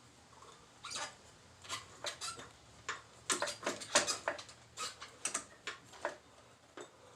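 Irregular small metallic clicks, clinks and scrapes of hand tools and parts being handled during motorcycle wheel and brake assembly work, with the loudest clinks clustered a few seconds in.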